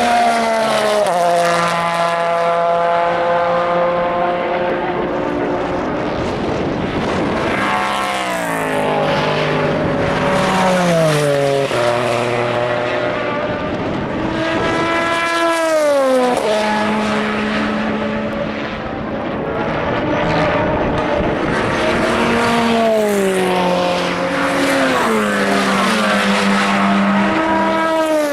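Endurance racing cars going past one after another, their engines changing down through the gears in quick steps, then holding a steady note, with the pitch gliding down as each car passes.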